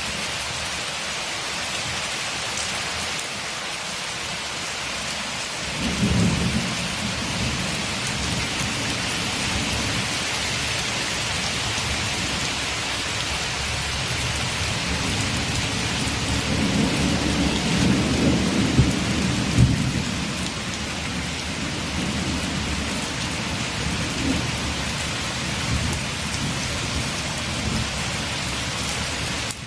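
Steady heavy rain hissing, with thunder rumbling: a low roll begins about six seconds in, and a louder, longer rumble with a few sharp cracks comes around two-thirds of the way through.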